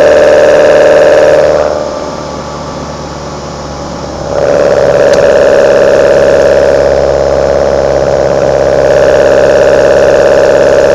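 Intake sound of a Kadett GS 16-valve four-cylinder engine breathing through side-draft Solex C40 ADDHE carburetors, running under load with a steady note. The throttle eases off about a second and a half in, the sound dropping much quieter, and comes back on at about four and a half seconds.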